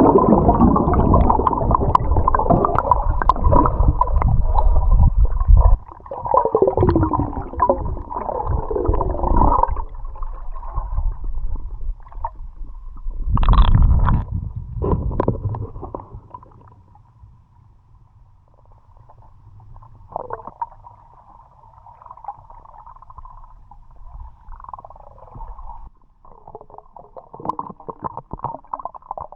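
Muffled underwater sound of water gurgling and rumbling around a submerged action camera, loud for the first ten seconds or so with a strong surge about halfway, then much quieter.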